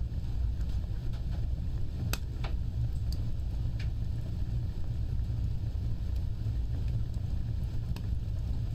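Wood fire burning: a steady low rumble of flames with a few sharp crackles, the loudest pair about two seconds in and another near the end.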